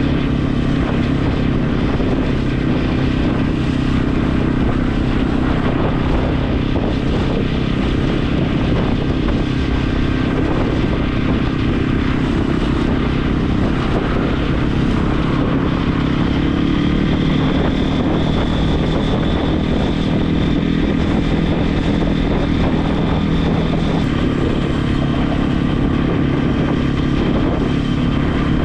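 Regulmoto TE enduro motorcycle engine running steadily under way, with road and wind noise; its pitch shifts a little about two-thirds of the way through.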